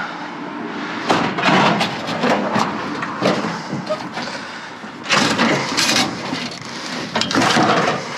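Irregular rustling and clattering of objects being handled, in several loud bursts: about a second in, around five seconds in, and again near the end.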